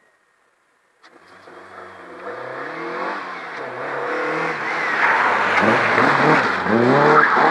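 Rally car approaching at speed after about a second of silence. Its engine revs up and drops back several times through gear changes and grows steadily louder.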